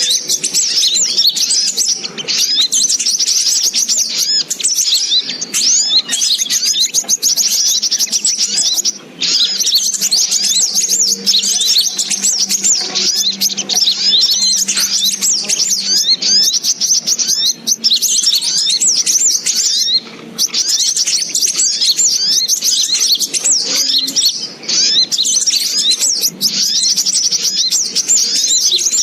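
Rapid, dense high-pitched chirping and twittering of a sogok ontong (little spiderhunter), a bird-luring call that runs almost without a break, with short gaps about 9, 20 and 24 seconds in.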